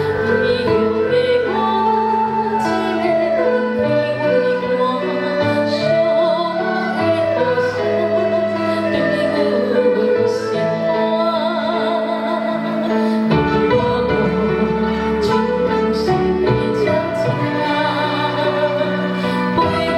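Woman singing with vibrato over a Chinese traditional instrument ensemble. A deeper bass part comes in about two-thirds of the way through.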